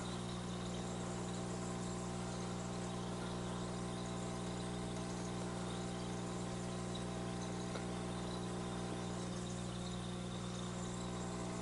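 Steady low hum with several unchanging tones layered over it, like a motor or mains hum, and no distinct events.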